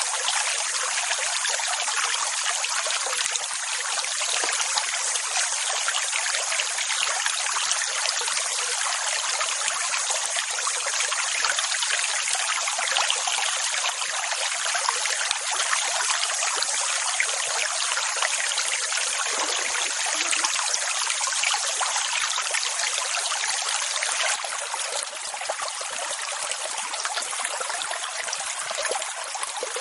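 Steady rushing water, an even hiss with no distinct wave surges, turning slightly softer for the last few seconds.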